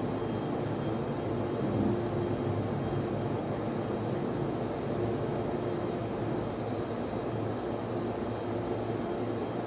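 Steady drone of a server room: the cooling fans of servers and network switches running without change, with a faint thin whine above the hum.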